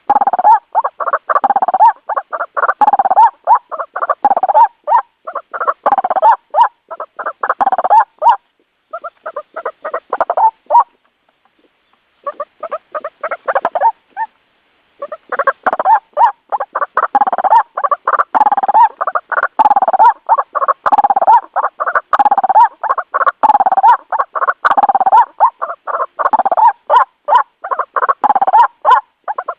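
White-breasted waterhen calling: a loud, fast run of harsh, repeated notes, several a second, broken by a few short pauses near the middle.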